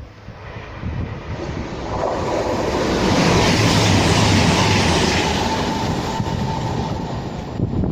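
A train passing at speed, its rush of wheel and air noise building over a couple of seconds to a peak midway and then easing a little, with a faint steady whine under it.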